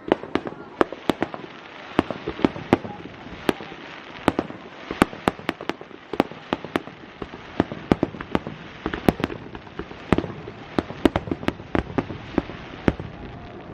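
Aerial fireworks bursting in rapid succession: many sharp, irregularly spaced bangs with a constant crackle beneath.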